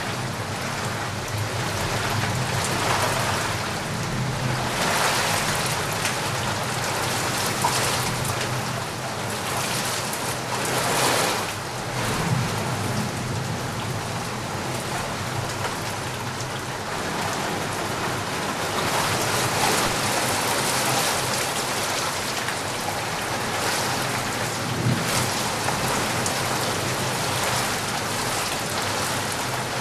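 Steady rain falling, a dense even hiss that swells a little louder a few times.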